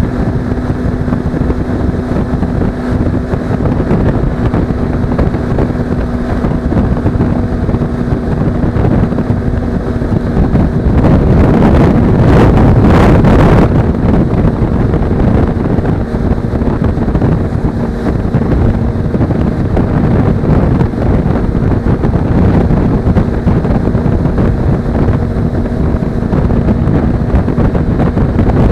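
Suzuki V-Strom 250 motorcycle engine running at a steady cruise under heavy wind buffeting on the action camera's microphone. The wind rush swells louder for a few seconds around the middle.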